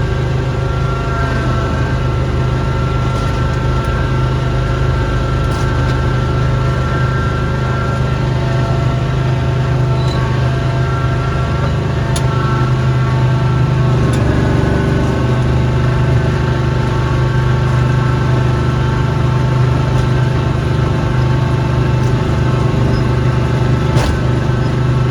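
Engine of a snowblowing machine running steadily throughout, growing slightly louder about fourteen seconds in.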